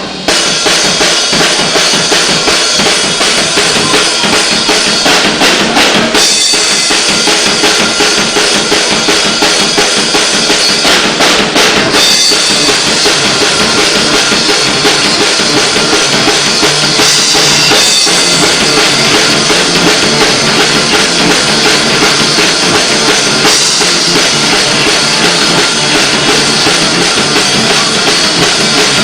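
Rock band playing live, with the drum kit loud in front: bass drum and snare driving a steady beat.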